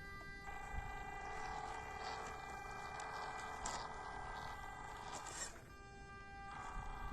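Small 1/16-scale RC crawler trucks driving: a steady high electric motor and gear whine that cuts out for about a second near the end as the throttle is let off, with light ticks and scrapes of the tyres on the trail.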